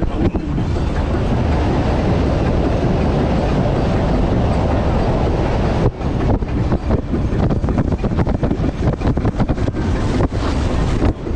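Wind buffeting the microphone over the steady rumble of a moving boat, with a brief dip about six seconds in.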